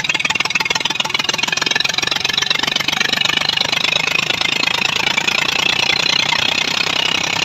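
Tractor diesel engine running fast with its silencer broken off, the open exhaust giving a loud, rapid, steady popping rattle. The heavy noise is the sign of the missing silencer.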